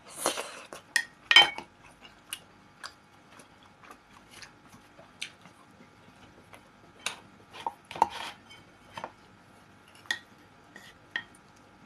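Close-up eating sounds of pelmeni with sour cream: irregular wet mouth clicks and smacking while chewing, with a spoon clinking against the plate.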